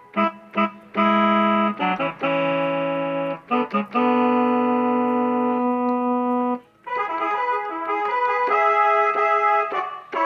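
Korg Pa600 arranger keyboard playing chords in a piano- or organ-like voice: a few short stabbed chords, two long held chords, then quicker, busier playing from about seven seconds in.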